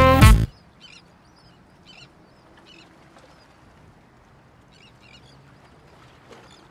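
Electronic dance music cuts off about half a second in, leaving faint outdoor ambience with a bird giving short calls every second or so.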